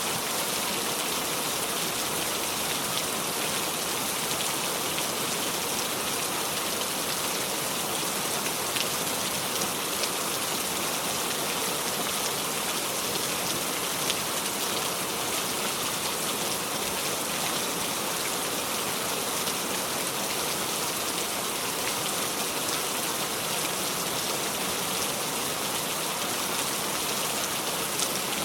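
Steady heavy rain, a constant hiss with faint scattered drop clicks and no thunder.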